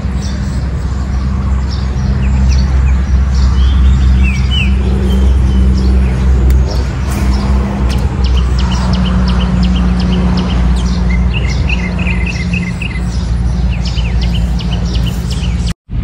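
Birds chirping and calling again and again over a loud, steady low hum, with a quick run of repeated notes about eleven seconds in. The sound drops out for a moment near the end.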